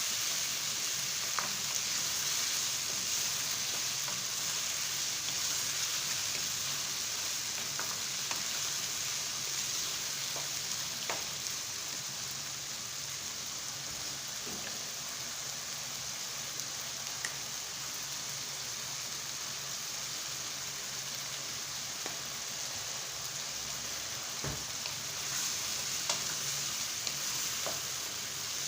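Food sizzling steadily in a hot pan, with a few faint clicks scattered through.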